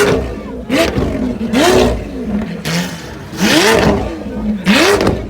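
Lamborghini Aventador LP740-4's V12 engine, breathing through a Capristo exhaust, blipped over and over: about six quick revs, each rising sharply in pitch and then dropping away.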